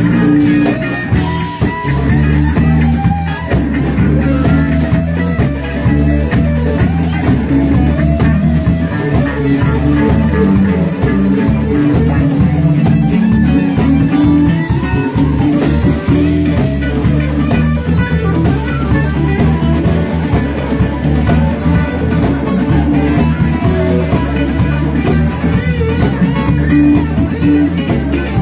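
Live rock band playing an instrumental blues-rock passage with electric guitar, bass and drum kit.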